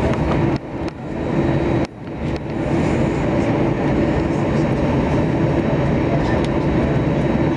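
Jet airliner cabin noise heard from a front seat: a loud, steady rumble of engines and wheels as the aircraft moves on the ground. There are two brief drops in level in the first two seconds.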